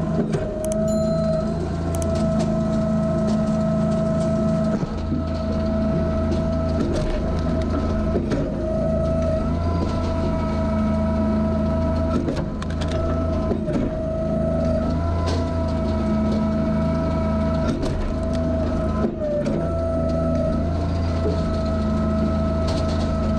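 Eastonmade AXIS wood splitter running: a steady engine hum with a high whine over it. The sound dips briefly every few seconds, with occasional sharp clicks and knocks of wood.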